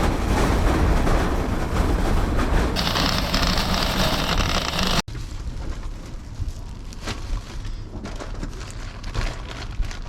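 Steady road and wind noise of a truck being driven, which stops abruptly about halfway through. After that come quieter scattered knocks and rustles.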